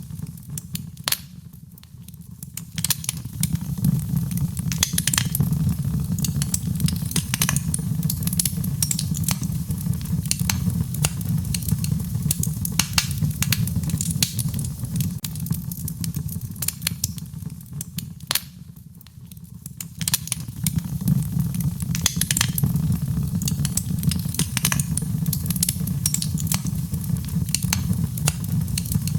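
Wood fire crackling, with frequent sharp pops and snaps over a low steady rumble. It dips quieter twice, briefly just after the start and again about two-thirds of the way through.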